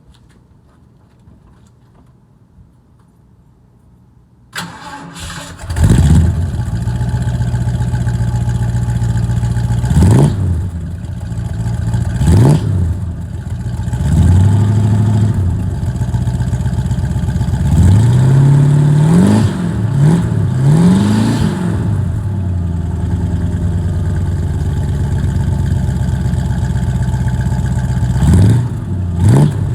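Big-bore V8 car engine cranking and catching about four and a half seconds in, then idling, with the throttle blipped into short revs that rise and fall again: a few singly, a quick cluster in the middle and two more near the end.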